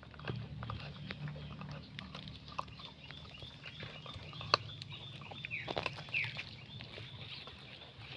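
A dog eating, snuffling and grunting over its food, with scattered clicks of chewing and one sharp click about four and a half seconds in.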